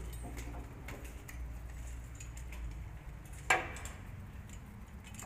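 Scattered light clicks and one sharp knock about three and a half seconds in, over a low steady rumble.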